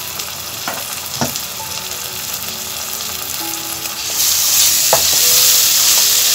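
Sliced onions, green chillies and spice paste frying in soybean oil, stirred with a wooden spatula: a steady sizzle with a few knocks of the spatula against the pan. About four seconds in, the sizzle grows much louder as the spices are turned into the hot oil.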